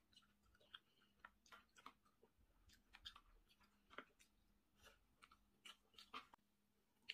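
Faint close-up chewing and wet mouth sounds of a person eating, with irregular soft clicks and smacks.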